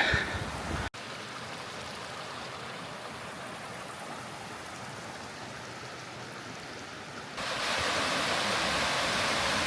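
Steady rushing of a mountain stream with small waterfalls. It cuts out abruptly about a second in, comes back, and turns louder and brighter about seven seconds in.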